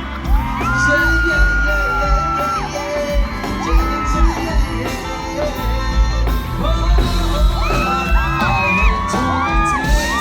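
Live band music with a heavy bass beat and a melody of long held notes that slide into pitch, with yells from the crowd.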